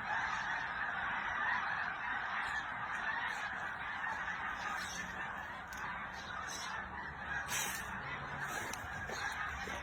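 A large flock of birds calling all at once, a continuous din of many overlapping calls with no break.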